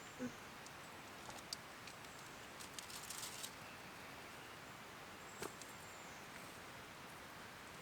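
Faint outdoor ambience with a few scattered small clicks and taps, and a short patch of light crackling or rustling about three seconds in.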